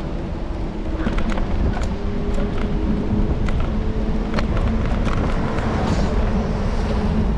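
Road and traffic noise picked up on an electric scooter's handlebars while riding: a steady low rumble with scattered clicks and rattles throughout.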